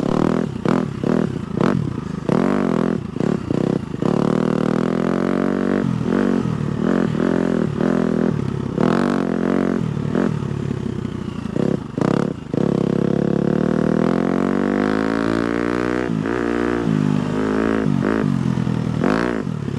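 A 250cc four-stroke single-cylinder dirt bike engine is ridden along a trail. The revs rise and fall with quick throttle on-off in the first few seconds, then settle into a steadier pull whose pitch climbs about two-thirds of the way through.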